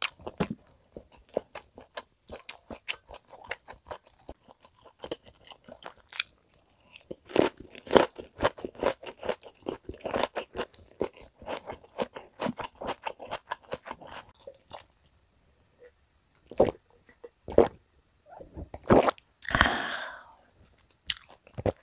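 Close-miked chewing of a mouthful of top blade steak: small wet clicks and smacks, several a second. They thin out and stop after about fifteen seconds. A few single louder clicks and a short breathy rush of noise follow near the end.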